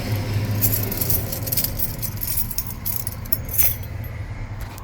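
A bunch of keys jangling as they are pulled out and sorted through by hand, many small metal jingles that come and go.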